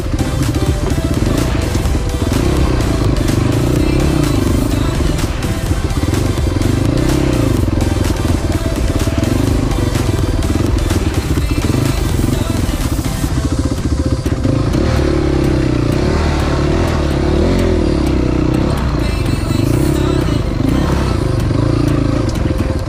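Motorcycle engine running while riding, its pitch rising and falling with the throttle, with frequent short knocks and rattles, most of them in the first half.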